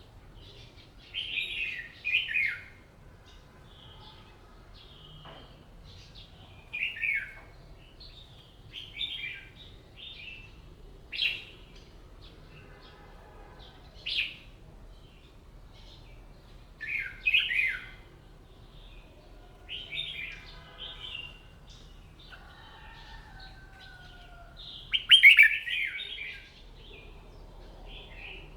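Red-whiskered bulbul singing: short, quick warbled phrases repeated every two to three seconds, with the loudest phrase about 25 seconds in.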